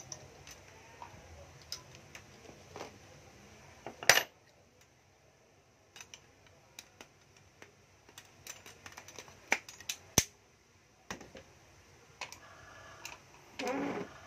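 Plastic and metal clicks and knocks from handling a cordless drill, scattered and irregular, with one sharp loud click about four seconds in.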